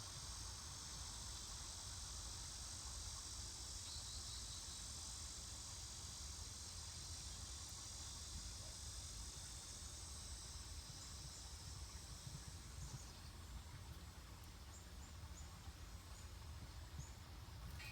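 Faint steady high-pitched insect chorus, like crickets, fading away about thirteen seconds in, over a low rumble. A few short faint chirps come near the end.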